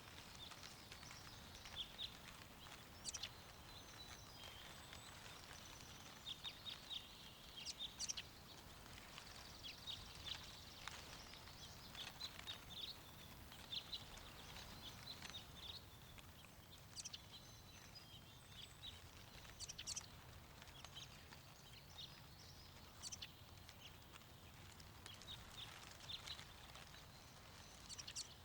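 Quiet outdoor ambience of songbirds chirping and trilling on and off, over a faint steady wind noise.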